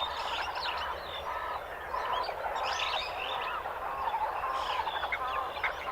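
A dense chorus of many animals calling at once: short overlapping chirps and honking calls that keep up steadily without a break.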